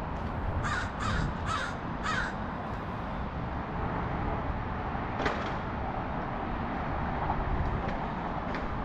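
A bird calling four times in quick succession, about half a second apart, harsh and noisy, over a steady low outdoor rumble.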